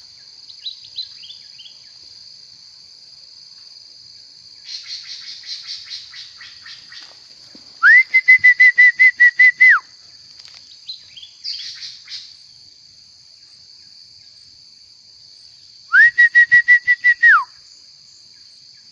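A songbird singing: stretches of chattering notes and two loud trills of rapid repeated notes, each about two seconds long, over a steady high-pitched buzz.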